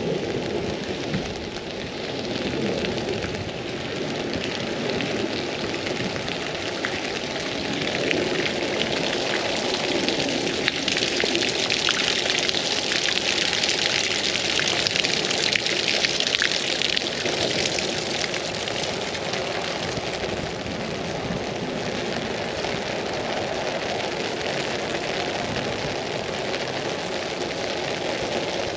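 Rain pattering steadily on an umbrella, a dense hiss of fine drop ticks, with a louder stretch of hiss swelling and fading in the middle.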